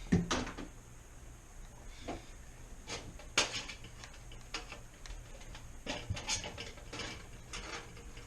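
Hands working at a refrigerator's pan and its retaining tabs inside the cabinet: a series of irregular clicks and knocks, loudest just after the start.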